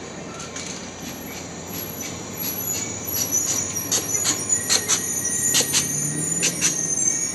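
Train rolling on the rails with thin, high wheel squeal. Sharp metallic clicks and clanks from the wheels crowd in and grow louder from about three seconds in.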